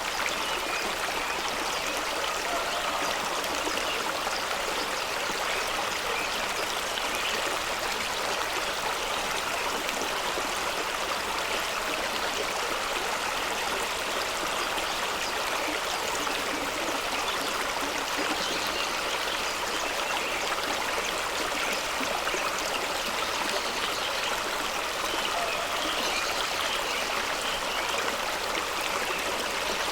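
Fast-running stream flowing over rocks: a steady, unbroken rush of water.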